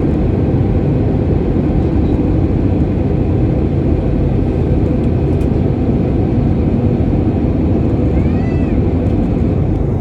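Steady engine and airflow noise inside a passenger airliner's cabin in flight. A short tone rises and falls about eight seconds in.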